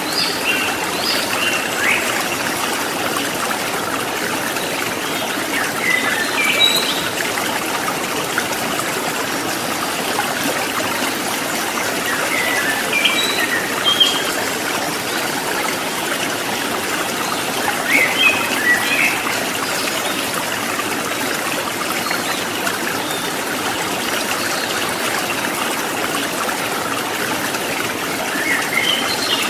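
Stream water trickling and splashing over rocks in a steady rush, with a few short bird chirps now and then.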